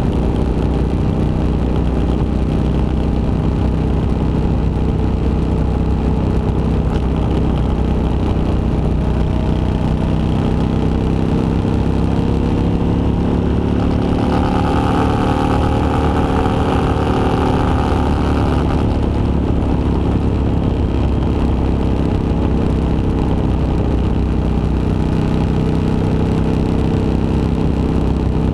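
Motorcycle engine running steadily on the road, its pitch rising a little about halfway through and easing back a few seconds later.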